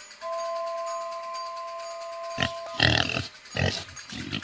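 A pig oinking and grunting about four times in the second half, over background music holding a steady note.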